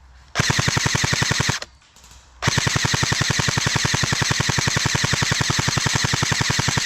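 Specna Arms SA-H08 airsoft electric rifle firing full-auto: a burst of about a second, a short pause, then a long continuous burst of rapid, even shots.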